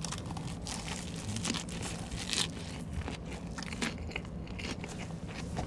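Chewing a big mouthful of a lettuce and perilla-leaf wrap (ssam) filled with spicy stir-fried pork, rice, carrot and onion: a quick run of wet crunches and crackles from the fresh leaves and vegetables.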